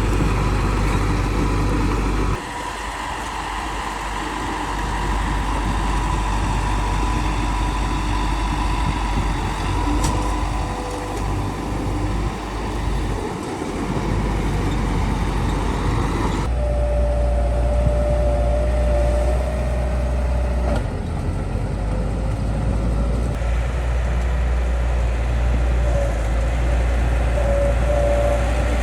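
Bulldozer's diesel engine running under load, with a steady whine over the engine; the sound changes abruptly twice, at about two seconds in and about halfway through.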